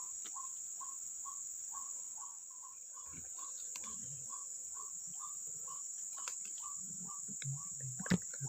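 White-breasted waterhen call notes repeated steadily at about two a second, played from an electronic bird-call lure, over a steady high buzz of crickets. There is a sharp knock near the end.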